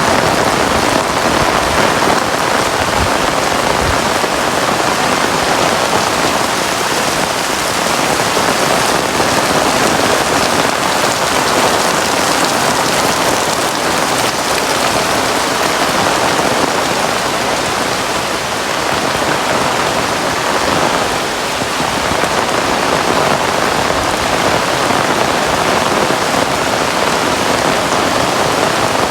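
Heavy rain falling steadily, a dense hiss of drops pouring down on surfaces.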